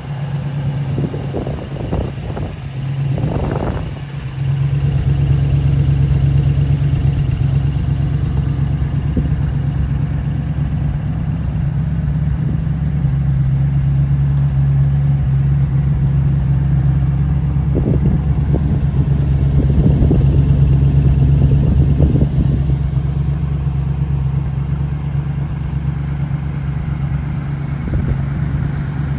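1977 Ford Bronco's engine idling steadily after a cold start, its low note growing louder about four seconds in.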